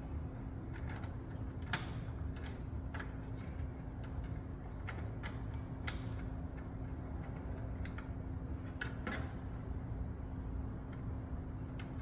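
Irregular light clicks and taps of a screwdriver and small screws against the metal parts of a desktop computer as the processor mounting screws are put back and tightened. A steady low hum runs underneath.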